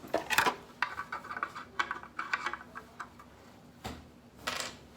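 Hard plastic toy parts being handled and pushed together: a run of irregular light clicks and rattles, then a couple of duller knocks near the end.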